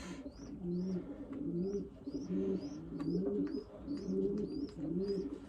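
Racing pigeons cooing in the loft, several low coos overlapping, with a quick run of short, high chirps repeating several times a second over them.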